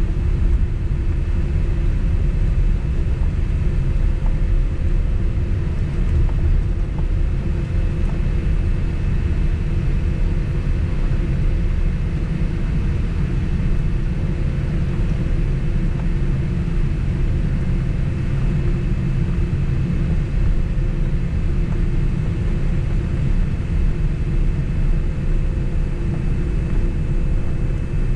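Steady low cabin rumble inside a Boeing 767 jet airliner as it taxis after landing, the engines at idle and the cabin air running, with a faint steady hum over it.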